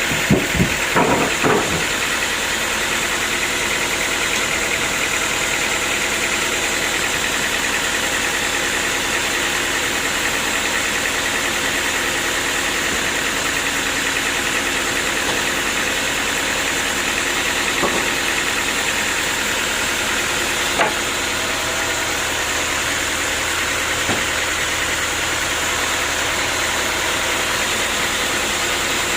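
Sawmill machinery running steadily with an engine-like drone, with a few knocks in the first two seconds and single sharp clicks later on.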